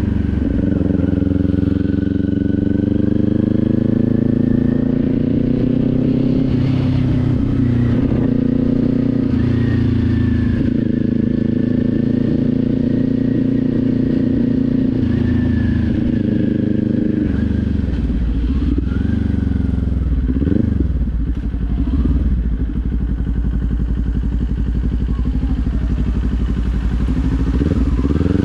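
Motorcycle engine running under way, its pitch shifting with the throttle. About two-thirds through it drops to a lower note, dips and rises a few times, then climbs as the bike accelerates near the end.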